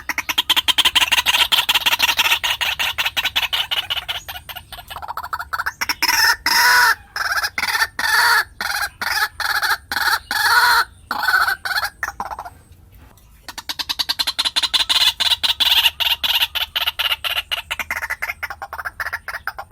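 White-breasted waterhen calling: long bouts of rapidly repeated short notes, with a brief pause about two-thirds of the way through.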